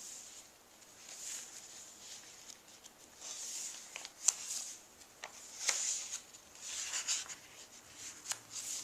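Paper pages of a handmade junk journal being turned and handled: soft rustling swishes several times, with a few light taps and clicks.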